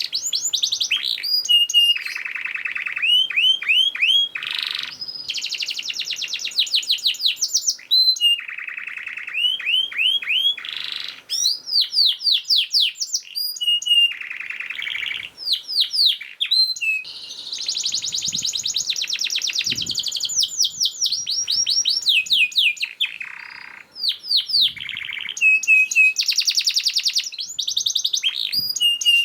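Male canary in full song: a long, fast, unbroken run of rapid repeated notes, quick downward-sweeping trills and buzzy rolls.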